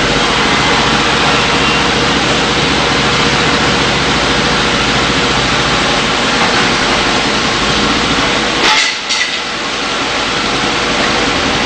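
Forklift engine running steadily as the forklift hoists a truck's engine, transmission and transfer case out of the frame, with a brief break about nine seconds in.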